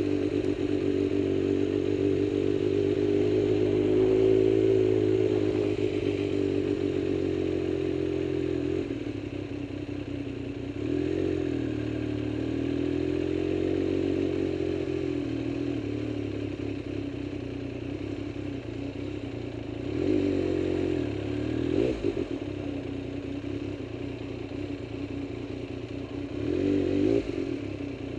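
Motorcycle engine running steadily, its pitch drifting gently up and down, with a few short rises in engine speed near the end.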